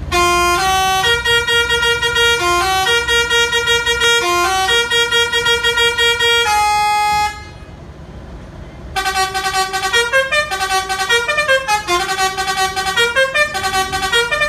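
Musical vehicle horn playing a tune in stepped, rapidly repeated notes for about seven seconds. After a short pause, a second phrase follows with quicker runs of rising and falling notes.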